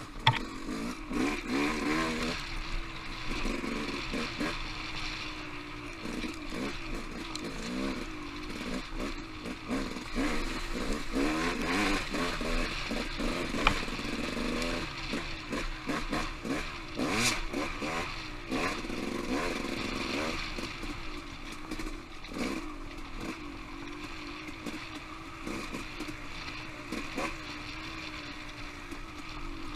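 Off-road motorcycle engine running on a trail ride, its pitch rising and falling as the throttle is worked, with a couple of sharp knocks from the bike jolting over the ground.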